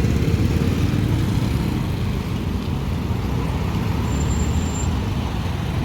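Street traffic noise: a steady, low rumble of motor vehicles on the road.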